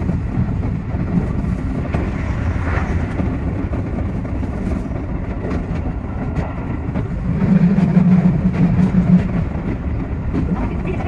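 Keio 8000 series electric train running, heard from inside the driver's cab: a steady rumble of wheels on rails with many small clicks from the track. A louder low hum swells for about two seconds past the middle.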